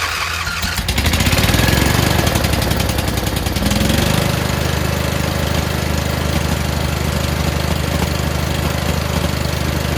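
Craftsman riding mower's twin-cylinder engine starting up, picking up speed about a second in, then running steadily. It is running on both cylinders now that the exhaust valve on cylinder 2 opens again after the push rod and rocker were tightened.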